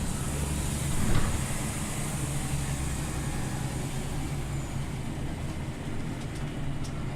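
Scania OmniLink CL94UB city bus running with a steady low drone, with a single thump about a second in.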